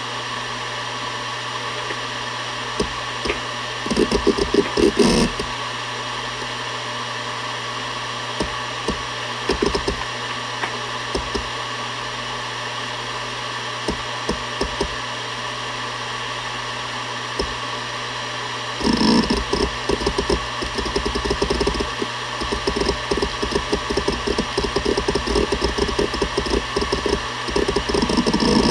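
Seagate Barracuda ES.2 ST31000340NS 7200 rpm hard drive spinning with a steady hum and whine. Its head actuator seeks in short bursts of rapid clicking a few seconds in, then clicks busily and continuously from about two-thirds of the way through.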